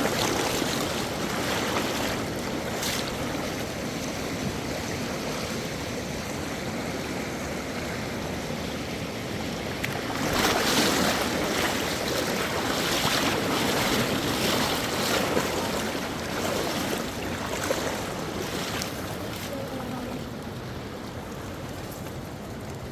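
Rushing river water, a steady noise that swells louder from about halfway through and eases off near the end.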